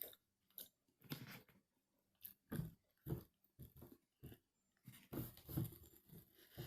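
A person chewing a mouthful of gummy candy close to the microphone: a string of short, irregular chewing sounds with brief pauses between them.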